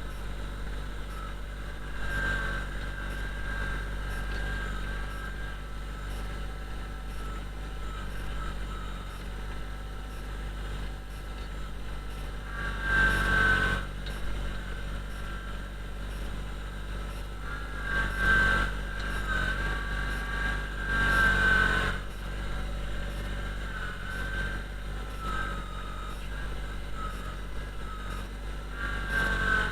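Kubota BX25D sub-compact tractor's small three-cylinder diesel running steadily, with a high whine that rises and falls. It swells louder a few times, about 13, 18 and 21 seconds in, as the engine works harder.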